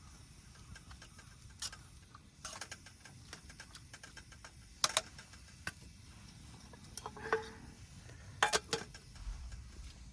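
Scattered light clicks and knocks at irregular intervals. The sharpest comes about five seconds in, and two come close together about eight and a half seconds in, with a brief ringing note just before them.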